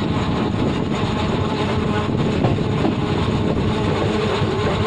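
Passenger train running at speed, heard from on board: a steady, loud rumble of wheels on the rails and the carriage.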